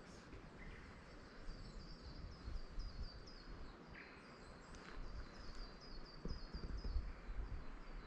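A small songbird repeating short, high, falling notes about four a second, over a low rumble on the microphone and footsteps on a dirt path.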